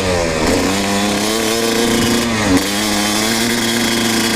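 Kawasaki KX250 dirt bike engine running at low speed. Its pitch falls in the first half-second, holds steady with a brief dip about two and a half seconds in, and rises a little near the end.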